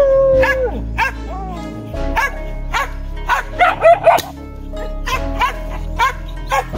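A pack of hunting dogs yelping and barking in a rapid string of short, sharp cries, busiest about four seconds in, over background music.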